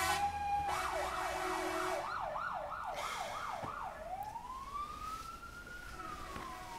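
Emergency vehicle siren in yelp mode: fast rising-and-falling sweeps, about three a second, start about a second in. Near the halfway point it changes to one slow wail that rises and then falls.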